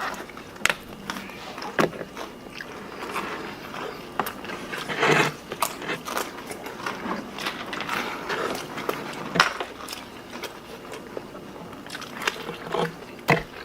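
People chewing and biting into pizza close to the microphone: wet mouth clicks and smacks, with a louder crunchy burst about five seconds in.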